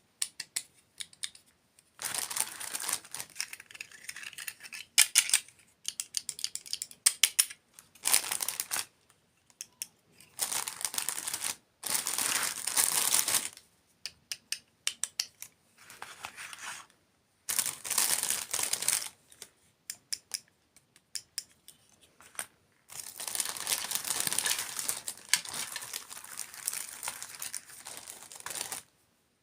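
Close-miked crinkling and crunching of desserts and their packaging, coming in bursts of one to three seconds with short silent pauses between.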